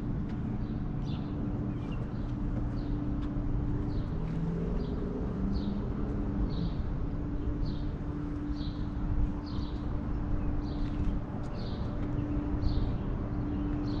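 A bird repeating a short chirp, about once or twice a second, over a steady low hum and rumble of background traffic or machinery.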